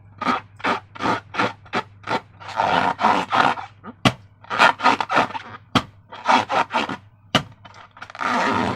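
Slime being squished and worked by hand: a run of short squelching, rubbing noises, about two or three a second, with a few sharp clicks among them.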